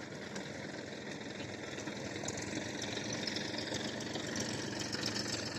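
Diesel tractor engine running steadily, slowly growing a little louder.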